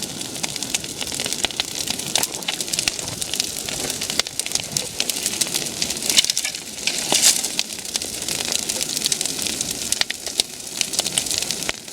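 Large bonfire of logs and brush burning hard, a continuous rushing noise of flame with a dense stream of sharp crackles and pops.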